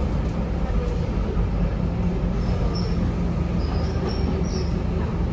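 Inside a moving Scania K230UB diesel bus: a steady engine drone with road noise, and a few faint high squeaks in the second half.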